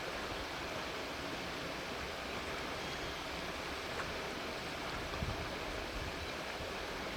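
Steady, even hiss of outdoor background noise, with a brief low rumble about five seconds in.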